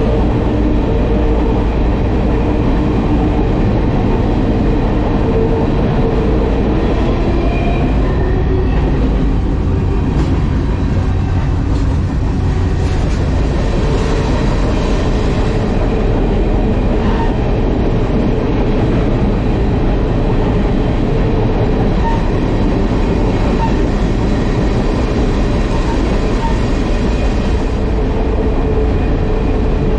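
Freight train rolling along the track: a steady, loud rumble of the cars and wheels that stays even throughout.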